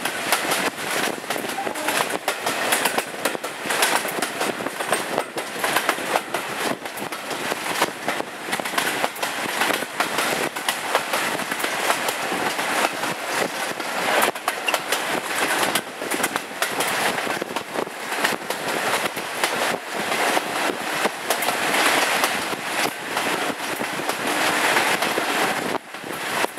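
Passenger train running behind a Class 52 diesel-hydraulic locomotive: a steady rumble with wheels clattering over the track and a rush of air, heard from an open window just behind the locomotive.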